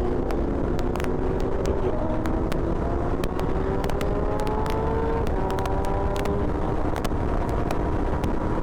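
Motorcycle engine, a Royal Enfield GT 650's parallel twin, pulling under acceleration: its pitch climbs slowly and drops sharply at upshifts about two and five seconds in. Wind rumbles on the helmet microphone throughout.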